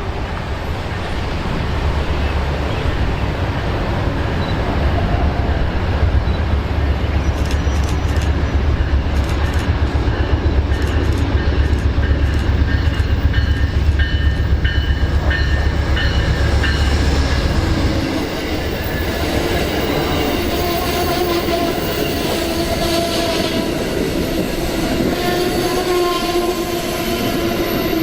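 Amtrak passenger train passing close by. A heavy low rumble runs for about the first two-thirds, then the cars roll past with wheel clatter and steady squealing tones.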